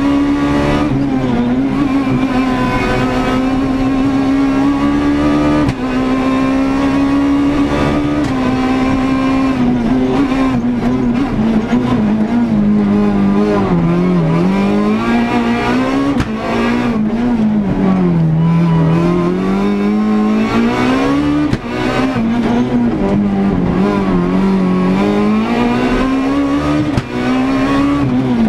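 Renault Clio S1600 rally car's 1.6-litre four-cylinder engine at high revs, heard from inside the car. It is held near the top of the rev range for long stretches, with the pitch dropping and climbing again several times in the second half as the driver changes gear and slows for corners. There are a few brief cuts in the sound at the shifts.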